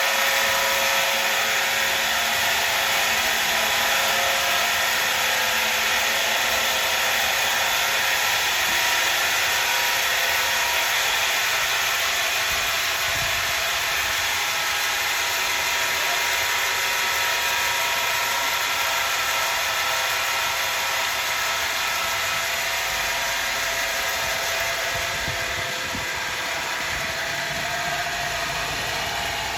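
A powered machine running steadily, with a constant whine made of several pitches over a noisy hum.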